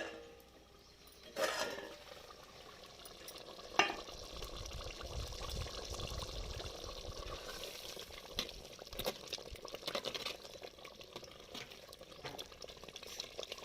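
Chicken gravy curry cooking in a pot, sizzling and bubbling with small crackles. Two sharp knocks of a utensil on the pot come in the first four seconds, before the steady crackling sets in.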